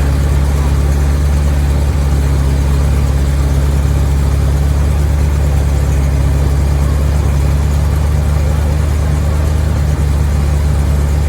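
An engine idling steadily, a deep even hum that does not change in pitch or level.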